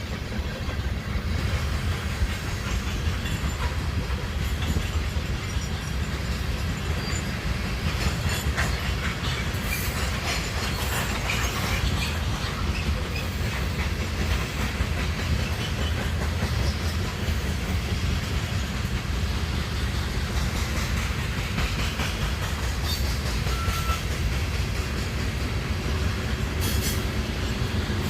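A train rolling past: a steady low rumble of wheels on rail, with scattered clicks over rail joints and a brief faint high squeal late on.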